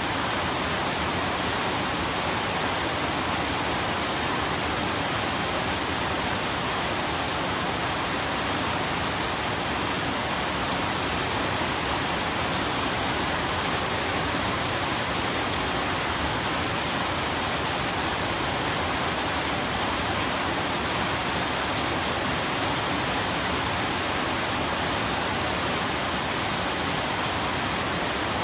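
Steady rain, an even unbroken hiss with no separate drops, thunder or changes standing out.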